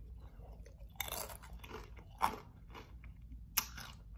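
A person chewing a tortilla chip, with three sharp crunches: about a second in, just after two seconds, and at about three and a half seconds.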